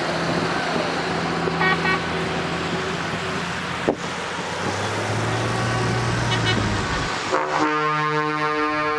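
Trucks driving past with engine noise and brief horn toots, then a long steady truck air-horn blast of several tones from about three-quarters of the way in.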